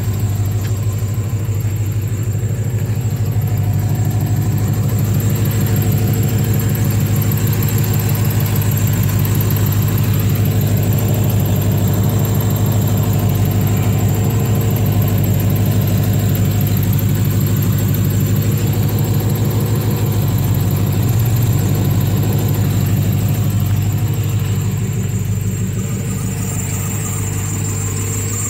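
5.7 L Vortec V8 idling steadily through a custom exhaust, with an even, rapid exhaust pulse.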